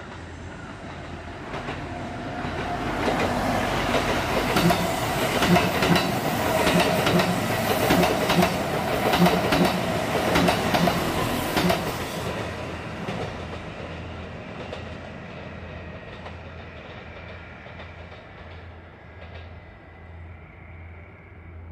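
Electric train on the Kintetsu Nara Line passing by. It builds over the first few seconds, then is loudest from about 3 to 12 seconds in, with rapid clickety-clack of wheels over rail joints and a steady whine, and fades slowly away as the train recedes.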